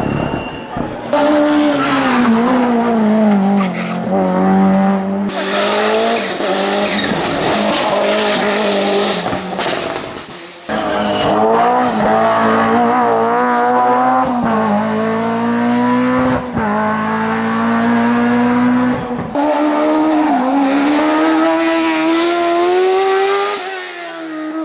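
Hillclimb race cars at full throttle, heard in several short passes one after another. Engine notes climb through the gears and drop at each shift, with tyre squeal.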